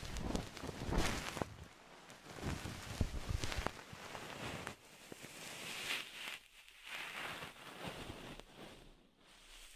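Close-miked ASMR trigger sounds: irregular soft taps and scratchy rustling, made by hands handling an object near the microphone.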